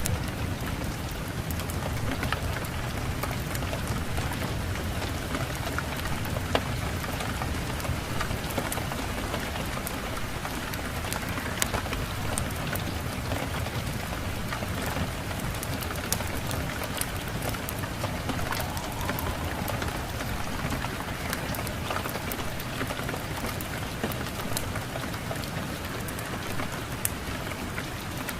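Steady rain, an even hiss with a low rumbling undertone, sprinkled with many short sharp ticks and crackles.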